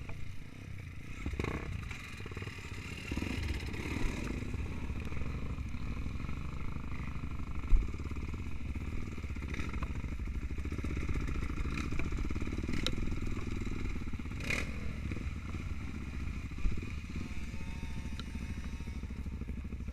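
Trail motorcycle engine running steadily at a low, even pace, with a few sharp knocks and clatter.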